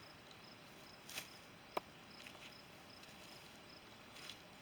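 Faint insect chirping, likely a cricket: short high chirps repeating steadily. A single sharp click about two seconds in, and a couple of soft rustles.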